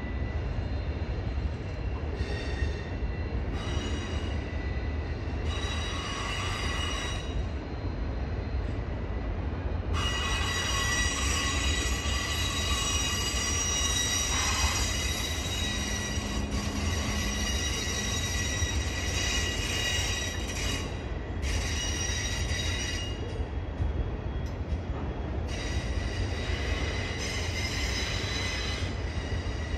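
CSX freight train of autorack cars rolling past, its wheels squealing in high tones that come and go over a steady low rumble, with one long stretch of squealing through the middle.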